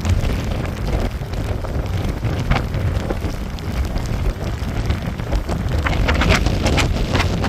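Strong wind gusting at about 11 m/s, buffeting the microphone with a heavy low rumble, with wind-driven rain. Scattered sharp crackles come through, densest near the end.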